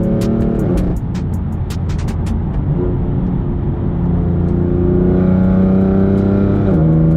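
Car engine and exhaust accelerating hard, pitch climbing through the gears with quick upshifts about 0.7 s in and again near the end. Sharp clicks sound in the first couple of seconds. The exhaust is opened up: secondary catalytic converters removed and the exhaust valves unplugged so it stays in its loudest mode.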